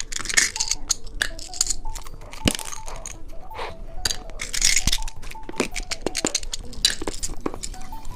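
Crackling, tearing and crunching of a bicycle-shaped novelty candy and its plastic packaging being handled, as many sharp irregular clicks, over soft background music.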